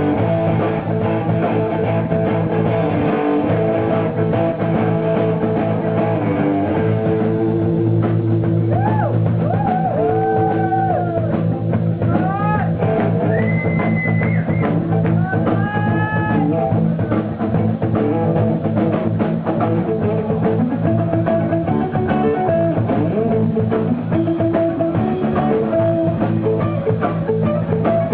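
Live rock band playing, led by guitar over bass and drum kit. From about a third of the way in, a higher lead line of notes sliding up and down rises over the band for several seconds.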